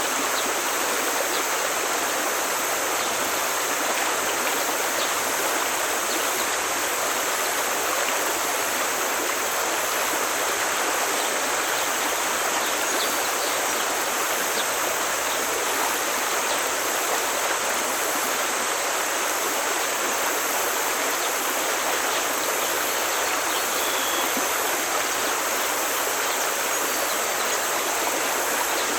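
Forest stream flowing, a steady unbroken rush of water.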